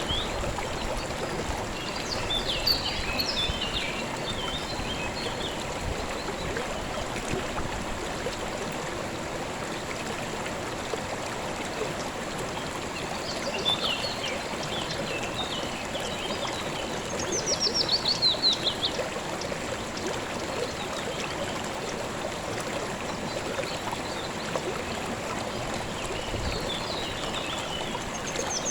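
Steady flow of a calm river, with birds calling over it: scattered chirps several times, and a quick series of falling notes about two-thirds of the way through.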